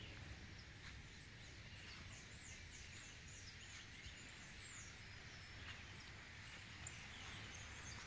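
Faint birdsong: a bird repeats short, high chirps through the first half, with a few more later, over a quiet outdoor background with a low, even rumble.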